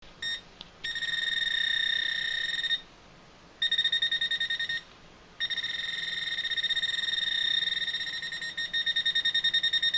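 Metal detector sounding a steady high-pitched tone in three long stretches with short gaps between them. The tone stutters rapidly in the short middle stretch and again near the end.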